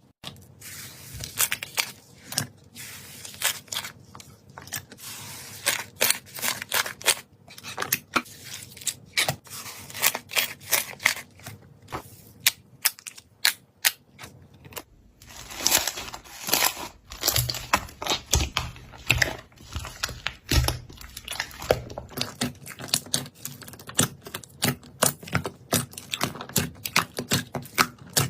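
Slime being squeezed and poked by hand, giving an irregular stream of sharp clicks, pops and crackles that grows denser and louder about halfway through.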